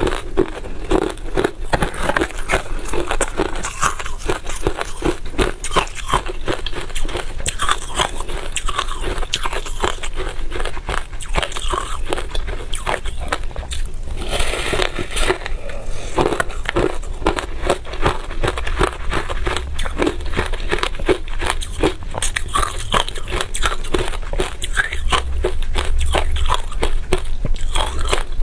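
Freezer frost being bitten and chewed close to the microphone: a dense, continuous run of crisp crunches and crackles, with a longer rough crunch about halfway.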